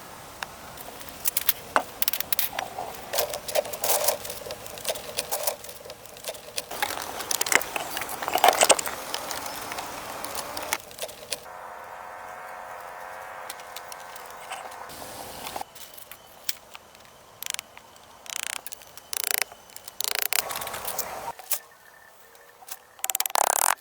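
Irregular knocks, cracks and rattles of bamboo being handled and worked by hand.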